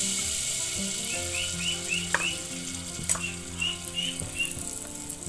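Pitha batter sizzling as it deep-fries in hot oil in a wok, just poured in from a ladle, with a steady hiss and a couple of sharp clicks about two and three seconds in.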